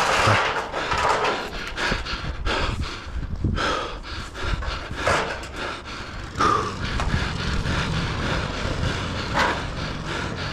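A person breathing hard while hauling a long metal roof panel, among irregular knocks and rustling from handling.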